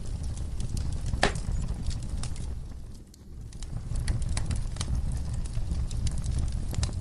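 Wood fire crackling in a fireplace: many small sharp pops and snaps over a steady low rumble, with one louder pop about a second in. The sound briefly dips about halfway through, then comes back.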